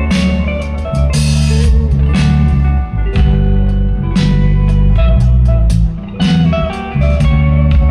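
Rock band playing an instrumental passage: electric guitar over sustained bass notes and drums, with cymbal hits about once a second.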